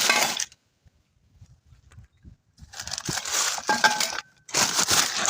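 Three bursts of crinkling, scraping handling noise, the longer two with a faint metallic ring, as the catalytic converter parts are handled.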